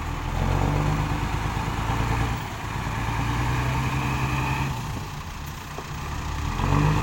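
Six-wheel dump truck engine running, its note shifting up and down several times as the throttle changes.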